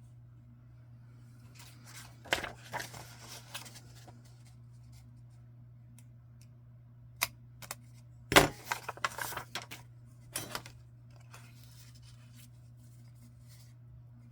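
Paper being cut and handled at a craft table: two spells of snipping and crinkling, about two seconds and about eight seconds in, with a few single sharp clicks between and after.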